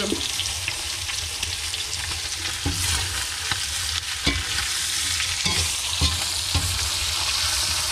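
Onion and meat sizzling in hot oil in a plov kazan, being stirred, with a few short knocks of the utensil against the pot.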